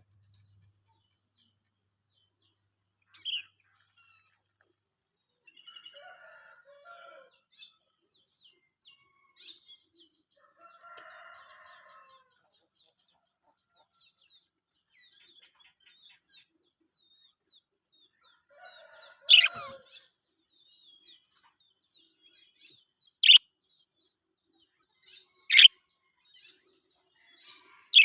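Budgerigars calling: a sharp chirp a few seconds in, soft warbling chatter in the first half, then four loud, shrill chirps a few seconds apart in the second half.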